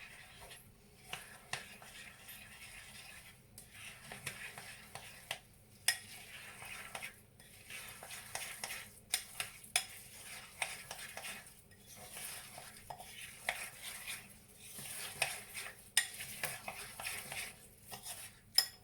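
A spoon stirring corn flour into a thick mixture of melted lard, peanut butter and bird seed in a bowl, scraping with frequent sharp clicks against the bowl.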